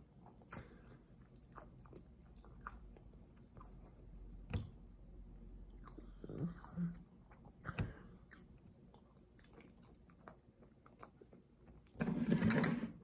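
A person chewing and biting a peeled hard-boiled egg close to the microphone: soft, wet mouth clicks and smacks scattered throughout, with a louder noisy burst near the end.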